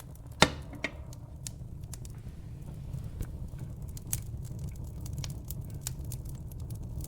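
Wood logs burning in a fireplace, crackling with many sharp pops, one much louder about half a second in, over a steady low rumble of the fire.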